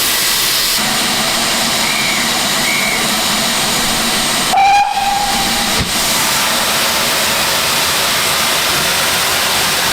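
Steam locomotive hissing steam steadily, with one short, loud whistle blast about halfway through.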